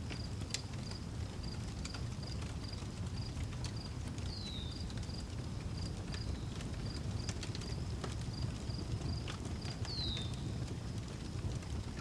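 Outdoor wood fire crackling, with scattered sharp pops over a low steady rumble. A cricket chirps throughout in an even, high-pitched pulse, and a bird gives two short descending whistles, about four seconds in and again near ten seconds.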